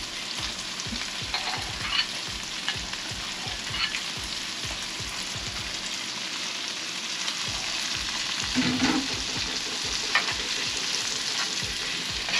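Chicken livers frying in butter and onions in a hot pan, sizzling steadily, with a utensil clicking and scraping against the pan as it is stirred.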